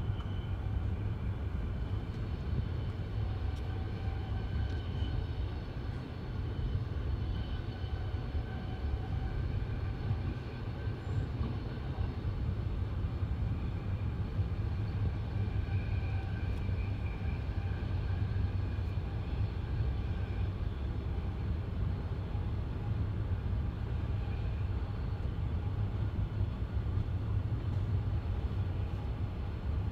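Train running steadily, heard from aboard: a continuous low rumble of wheels on rails, with a faint whine that swells and fades now and then.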